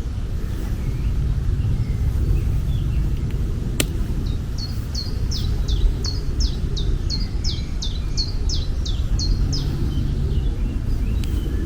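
A songbird singing a rapid series of repeated high notes, each sweeping downward, about two or three a second for roughly five seconds, over a steady low outdoor rumble. A single sharp click comes just before the song starts.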